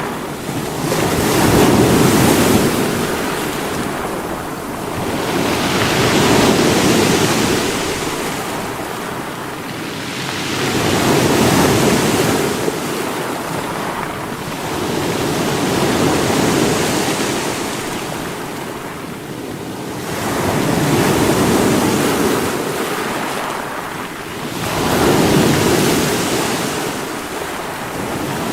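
Sea waves breaking against rocks and washing back in a steady cycle, six surges about every five seconds.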